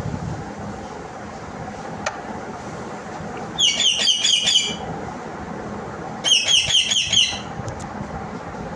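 Indian ringneck (rose-ringed) parakeet screeching: two quick runs of about six shrill calls each, a couple of seconds apart, over a steady background noise.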